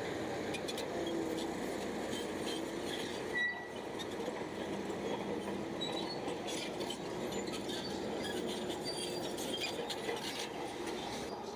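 Bulldozer running steadily, its steel tracks clinking and ticking, with a short high squeak about three and a half seconds in.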